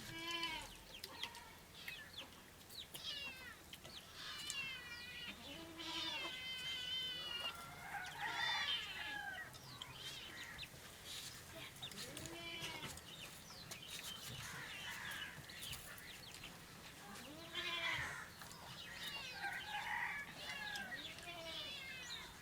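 Domestic chickens clucking and calling, many short rising-and-falling calls one after another.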